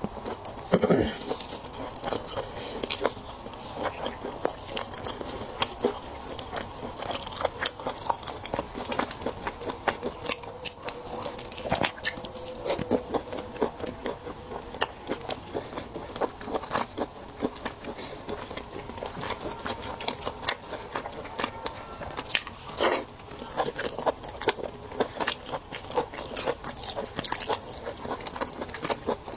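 Close-miked eating of raw seafood: wet chewing and biting with many short clicks and small crunches of shell.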